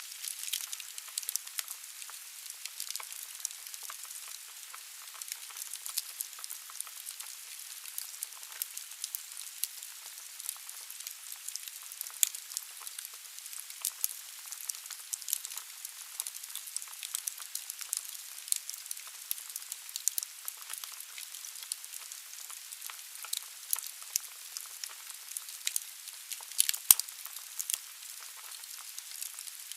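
Wood fire burning in a fireplace: a steady hiss with frequent sharp crackles and pops, one louder pop near the end.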